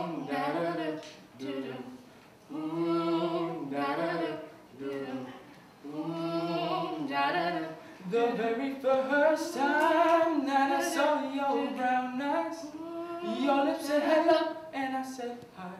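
A group of voices singing a cappella in phrases, with a low note held beneath the melody for about the first eight seconds, then fuller, more moving lines.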